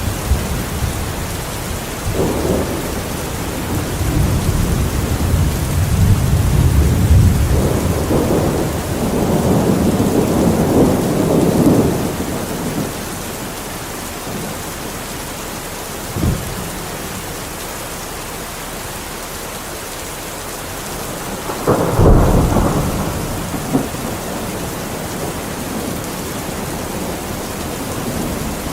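Steady rain with thunder: a long rolling rumble swells for about ten seconds, then a sharper clap with rumble comes about two thirds of the way through.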